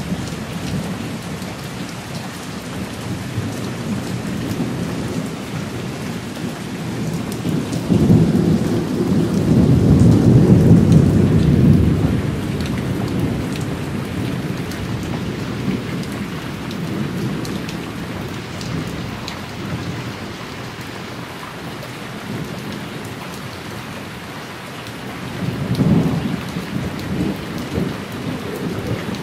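Thunderstorm: steady heavy rain falling, with a long low rumble of thunder building about eight seconds in and fading after twelve, and a shorter rumble near the end.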